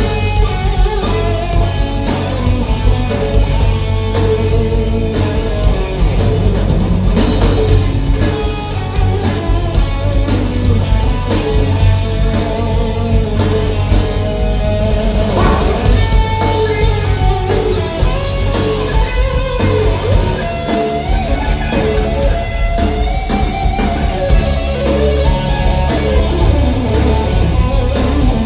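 Live rock band playing an instrumental passage: guitar melody lines over drum kit and bass, loud and continuous.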